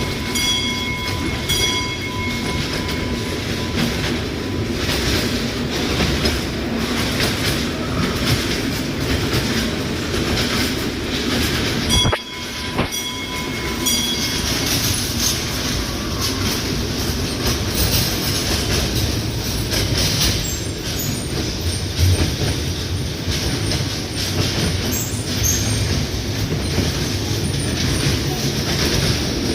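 Train running on the rails: a steady rumble and rattle, with brief high-pitched tones near the start and again about twelve seconds in.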